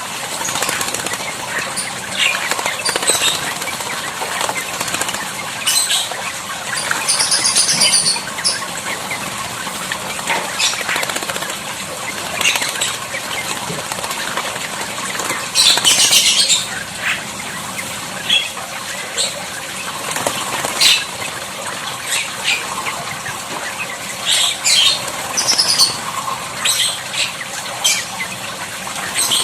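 A starling bathing: repeated short bouts of wing-fluttering and splashing in water, with a few brief high-pitched calls, the loudest near the middle.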